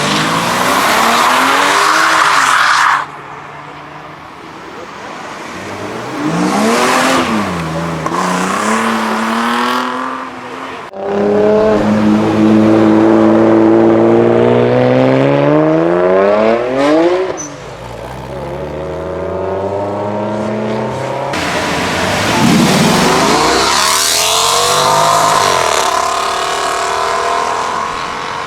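Modified cars accelerating hard away one after another, their engines revving up with rising pitch, dropping at gear changes and rising again. The loudest pass comes about halfway through.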